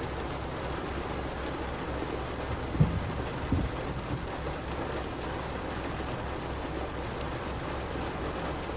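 Heavy rain beating steadily on a car's roof and windows, heard from inside the car. About three seconds in, two short low thuds stand out above the rain.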